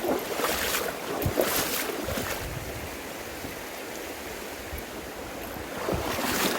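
River water sloshing and splashing, with a few louder splashes in the first two seconds and again near the end.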